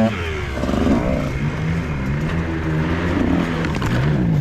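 Dirt bike engine running at modest revs, its note rising and falling as the throttle is worked on and off.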